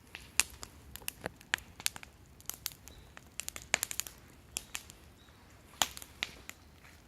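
Wood fire crackling: irregular sharp pops and snaps of burning wood, a few each second.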